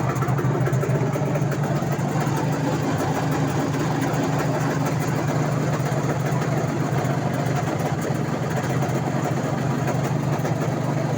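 IZh Jupiter motorcycle's two-stroke twin-cylinder engine, freshly overhauled and converted to water cooling, idling steadily and evenly, running like clockwork.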